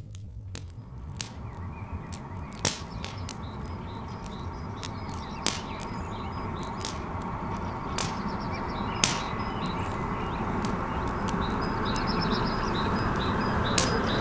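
Wood fire crackling with occasional sharp pops, birds chirping, and a low rumble growing steadily louder as a steam train approaches.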